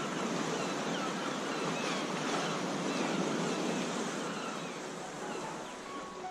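Steady rushing of water, an even noise that eases slightly near the end.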